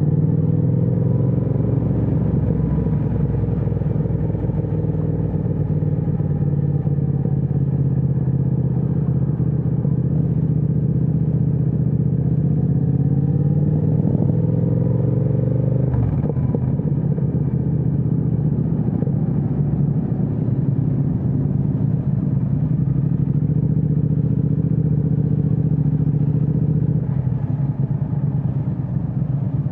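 Triumph Speed Twin 1200's 1200 cc parallel-twin engine running through an aftermarket Vance & Hines exhaust while riding. The engine pitch rises and falls gently, climbs for a few seconds before halfway, then drops suddenly as the throttle comes off or the gear changes.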